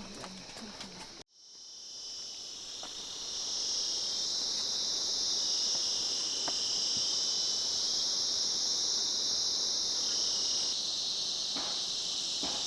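A dense, steady, high-pitched chorus of insects in the forest, fading in over the first couple of seconds after a sudden cut and then holding loud.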